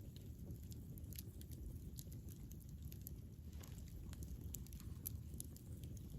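Campfire burning: wood crackling with scattered small pops over a low, steady rumble of flame.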